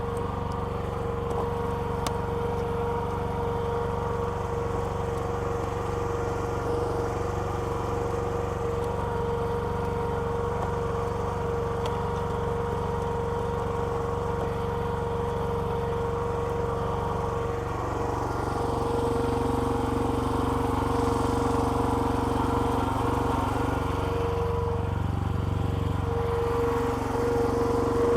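Small petrol engine of a homemade hydraulic log splitter running steadily. About two-thirds of the way through it gets a little louder and a lower hum joins in.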